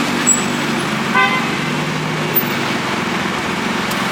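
City-street traffic: vehicle engines running over a steady hiss of road noise, with one short car-horn toot about a second in.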